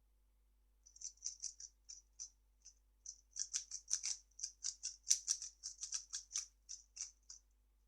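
A 3x3 speedcube being turned fast: a quick, uneven run of light plastic clicks as the layers snap through their turns, several per second, starting about a second in and stopping shortly before the end.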